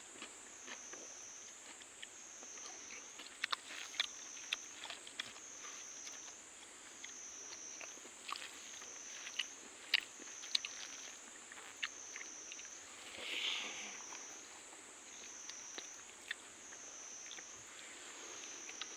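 Chewing and crunching of food, with sharp clicks scattered through. Under it is a steady high insect chorus that swells and fades about once a second.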